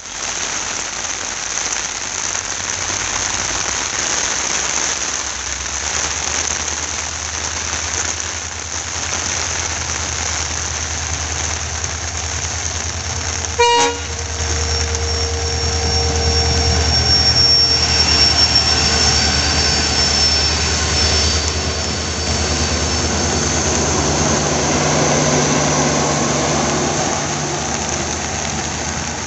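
Heavy rain hissing steadily as a WDP4D diesel locomotive, with its two-stroke EMD 16-cylinder engine, approaches and passes with a low rumble. It gives one short horn toot about halfway through. The LHB coaches then roll by with a steady rumble and some sustained ringing tones from the running gear.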